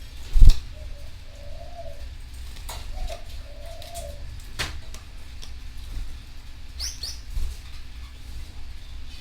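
A dove cooing: low, soft calls repeated in pairs through the first four seconds. A sharp knock, the loudest sound, comes about half a second in, with a few fainter clicks later and two short high chirps near seven seconds.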